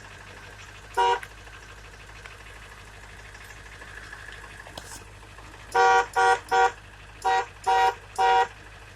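1999 Ford F-350's horn honked in short toots: one about a second in, then six quick ones in a row in the second half, each a few tenths of a second long. The horn is sounding through the clockspring whose broken wires have just been soldered back together, showing the repair works.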